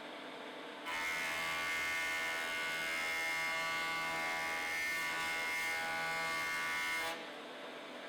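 Wood planing machine running with a steady whine, starting abruptly about a second in and cutting off about seven seconds in.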